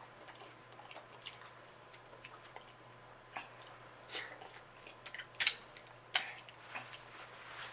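Close-up wet chewing of a person eating, with scattered short sharp mouth clicks, the loudest a little past halfway.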